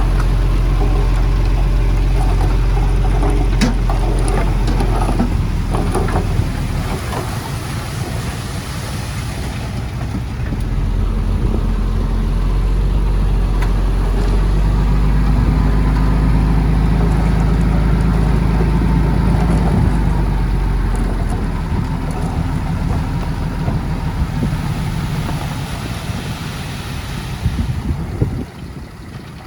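Heavy diesel earthmoving machinery running steadily, with a few metallic clanks a few seconds in. The engine sound eases off near the end.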